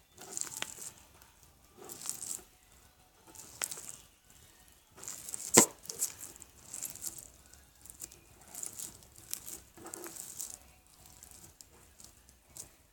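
Slime being squeezed and worked by hand, with repeated wet crackling and popping squelches about every second or two, and one sharp pop about halfway through.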